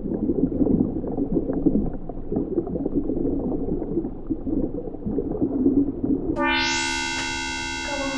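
Low, muffled rumbling noise for about six seconds, then a sustained electronic chord of many steady tones comes in suddenly and holds.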